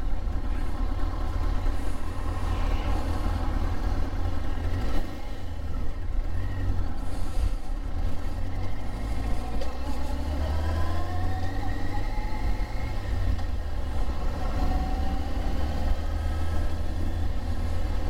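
Yamaha Thunderace (YZF1000R) inline-four motorcycle engine running at low revs, then pulling away with the revs rising in steps from about nine or ten seconds in.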